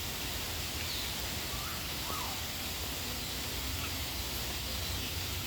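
Steady hiss of falling rain, with a few faint, short bird calls about one and two seconds in.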